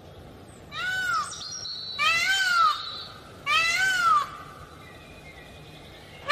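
Male Indian peafowl (peacock) calling three times, about a second and a half apart. Each call is short and rises then falls in pitch.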